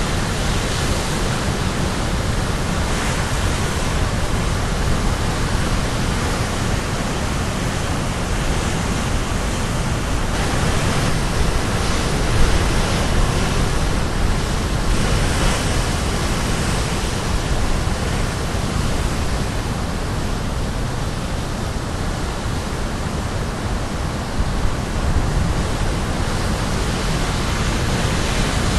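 Caribbean Sea surf crashing on the shore: a steady, dense rush of breaking waves, with now and then a wave breaking a little brighter.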